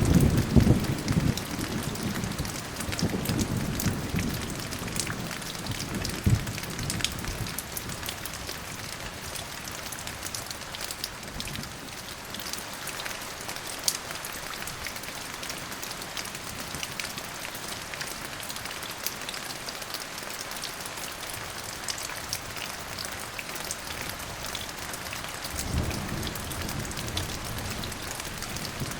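Steady rain falling, with a rumble of thunder at the start that dies away over the first several seconds and another low rumble of thunder rolling in near the end.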